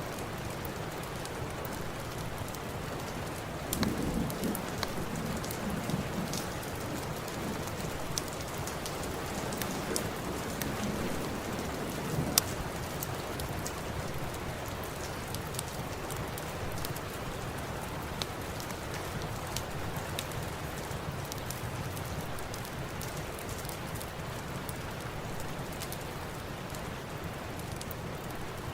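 Steady rain with sharp crackles and pops from a wood fire scattered through it, one louder pop about twelve seconds in. A low rumble swells about four seconds in and fades away by about twelve seconds.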